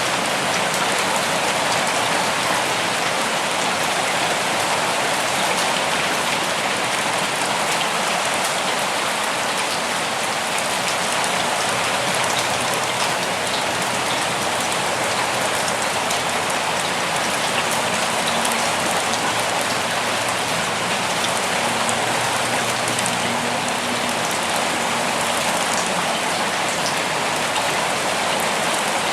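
Steady rain falling on foliage and ground, a dense even hiss with fine patter of individual drops.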